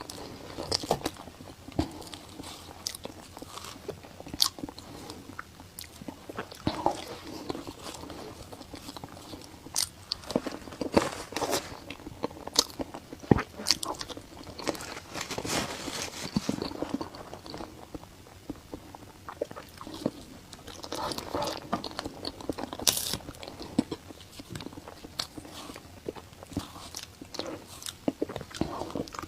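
Close-miked eating: a person biting and chewing food, with many irregular sharp mouth clicks and smacks, a few of them much louder than the rest.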